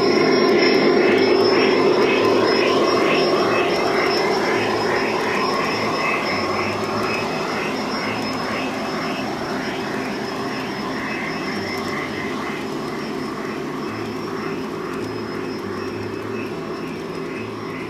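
Model train running on an outdoor garden railroad: a steady motor-and-wheel drone that is loudest about a second in as it passes close, then slowly fades as it moves away.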